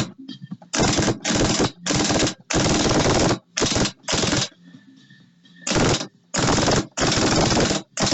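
Pneumatic impact wrench hammering in about nine short bursts, with a longer pause near the middle, as it runs bolts off an engine being taken apart.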